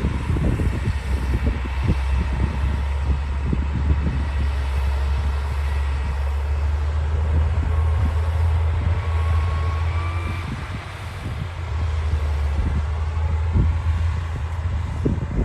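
D60 crawler bulldozer's diesel engine running steadily at work, with irregular clanks and knocks throughout.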